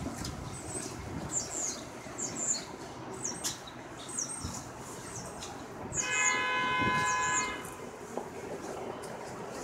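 Train horn sounding once for about a second and a half, over the steady noise of a train, with short high squeaks scattered throughout.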